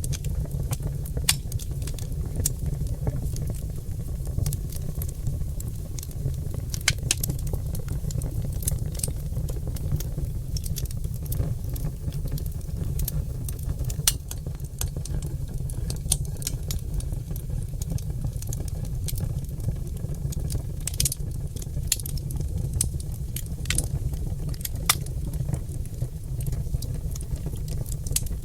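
Oak log fire crackling in a fireplace: irregular sharp pops and snaps, several a second, over a steady low rumble.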